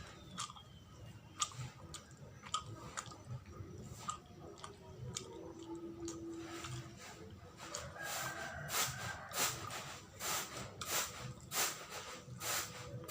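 Close chewing of sticky glutinous-rice sawella, with wet mouth clicks that come thicker and louder over the last few seconds.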